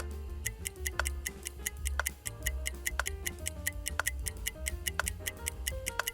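Countdown clock ticking sound effect, about four ticks a second with a stronger tick each second, over a background music bed with a steady bass line.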